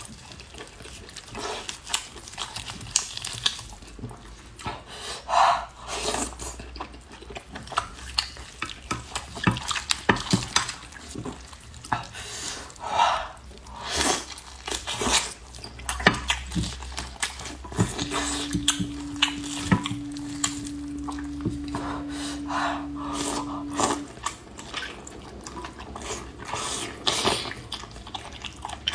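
Close-up eating sounds: wet chewing and lip smacks mixed with many short clicks of utensils against dishes. A steady low hum sounds for about six seconds in the middle.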